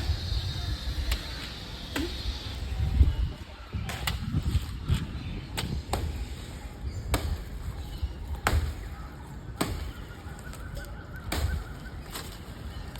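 Sharp knocks or chops at irregular intervals, roughly one every second or so, over a low rumbling of wind on the microphone.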